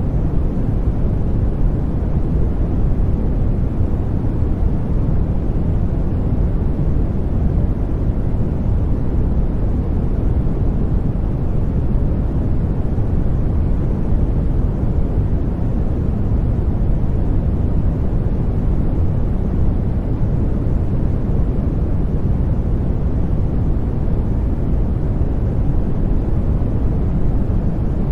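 Steady white noise for baby sleep: an even, deep rush, heaviest in the low end with little high hiss, unchanging throughout.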